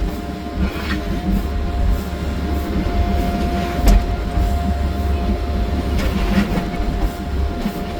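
Wheeled excavator's diesel engine and hydraulics running steadily, a low rumble with a constant whine over it, and a sharp knock about four seconds in.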